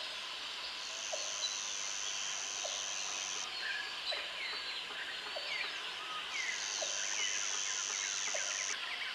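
Tropical forest ambience: many birds chirping and whistling over one another, with an insect's high steady buzz that comes in twice for a couple of seconds at a time. A short low chirp repeats regularly, a little over a second apart.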